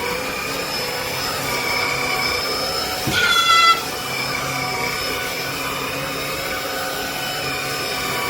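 Shark cordless stick vacuum running steadily, its motor giving a whine with a few wavering tones. About three seconds in, a cat meows once over it.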